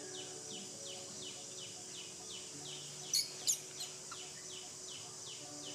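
Outdoor ambience: a bird repeats a short falling call about two to three times a second over a steady high insect hiss. A little past halfway, two short, sharp, high squeaks come close together and are the loudest sounds.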